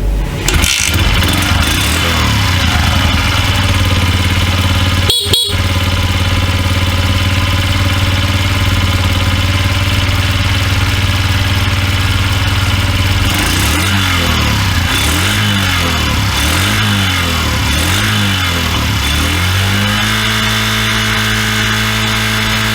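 Suzuki GS50's 49cc single-cylinder four-stroke engine idling steadily. From about halfway in it is revved up and down about once a second, half a dozen times, then held at a steady higher speed near the end.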